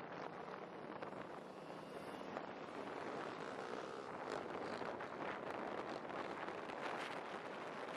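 Wind rushing over the microphone of a moving motorcycle, a steady noisy rush with the bike's road and engine noise underneath.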